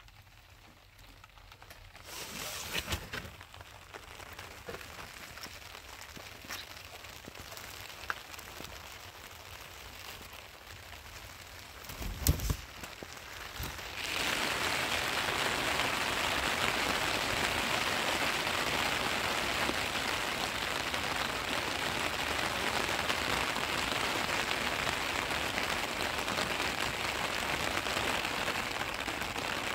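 Rain falling, a steady even hiss that sets in suddenly about halfway through. Before that it is much quieter, with a few knocks and one loud thump.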